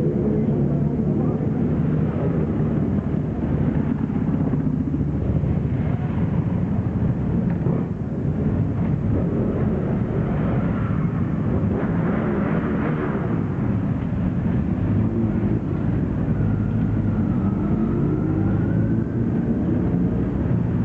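Many motorcycle engines running together as a stream of bikes rides past, with individual engines revving up and dropping away as they go by.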